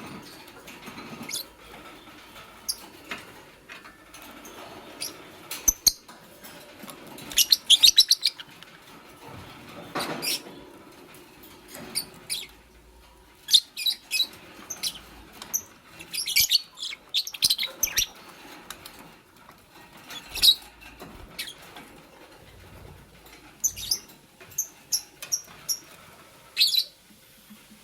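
Fischer's lovebirds giving short, sharp, high-pitched chirps, some in quick runs and others scattered, with a bit of rustling between the calls.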